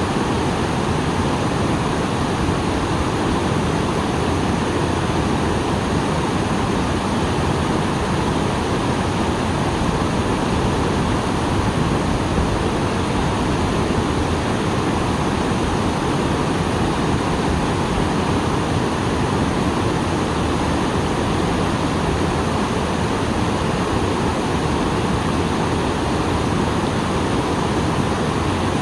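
Small waterfall pouring in a steady, unbroken rush, full with rainwater.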